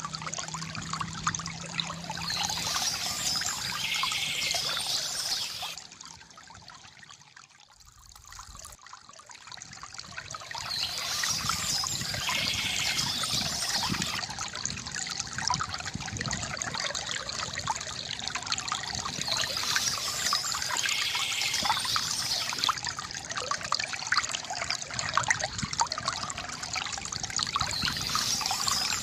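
Water trickling and gurgling from a bamboo fountain spout. The flow fades for a few seconds about a quarter of the way in, then comes back steady.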